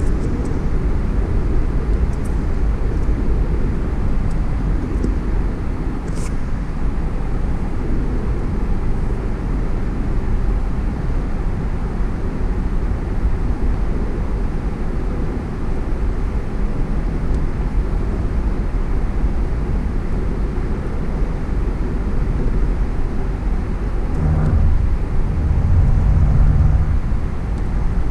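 Steady road noise of a car driving: a continuous low rumble of tyres and wind. A louder low hum swells for a few seconds near the end.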